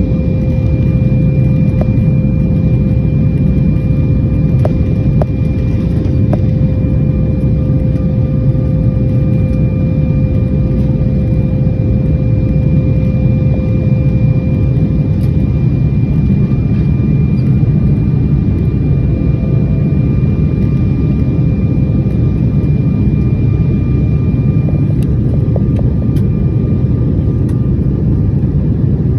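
Steady low rumble of a running vehicle, with faint steady whining tones over it; the lowest tone fades about halfway through.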